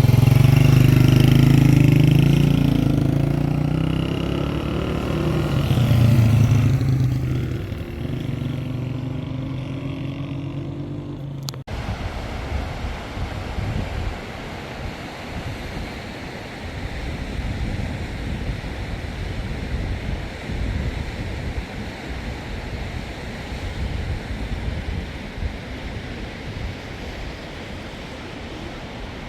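A motor vehicle's engine running loudly, its pitch and level swelling and falling. After a sudden cut about twelve seconds in, a steady rush of flooded river water with wind on the microphone.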